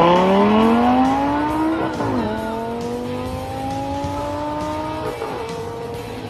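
A sports car engine accelerating hard through the gears. Its pitch climbs, drops at an upshift about two seconds in, climbs again, and drops at another shift about five seconds in. Rock music plays underneath.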